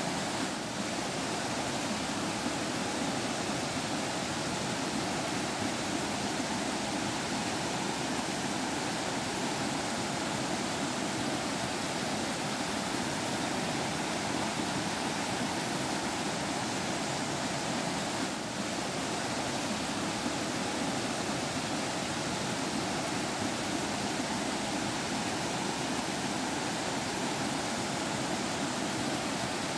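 Stream water flowing steadily, an even trickling rush without pause.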